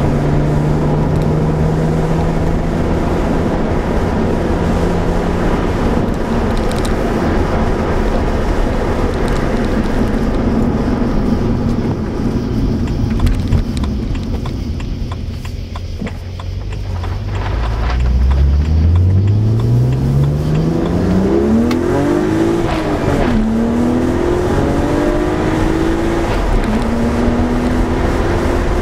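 BMW 135i's turbocharged straight-six heard from inside the cabin: steady cruising, then from about halfway the car accelerates hard, the engine note climbing and dropping back at each upshift. A rattle of drinks and ice in a cooler strapped in the back seat joins in, not a transmission noise.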